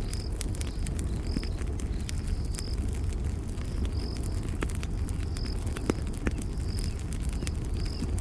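Campfire crackling: many sharp pops and snaps over a steady low rumble of burning wood. A cricket chirps, short and high, about once a second.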